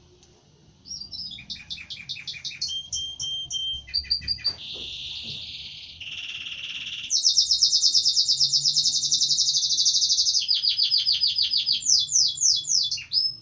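Domestic canary singing one long song made of phrases of rapidly repeated notes. It starts about a second in, grows into a fast, loud trill in the middle, and ends on a few swooping notes.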